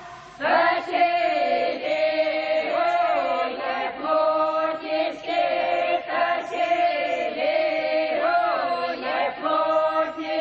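A choir singing a Russian folk song in long, drawn-out notes, without accompaniment.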